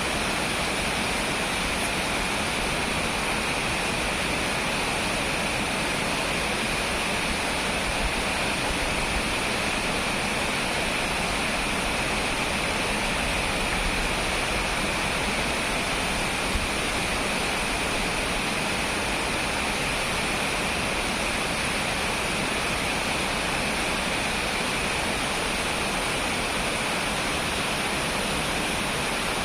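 Heavy rain falling, a steady even rushing hiss with no change in level.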